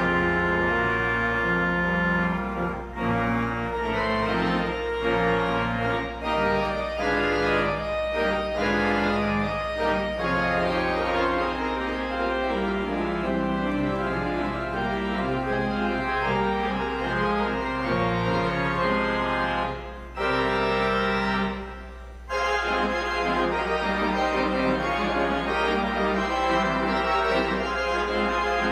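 Church organ playing music in held chords that move from note to note, breaking off briefly twice around twenty seconds in. A steady low hum runs underneath.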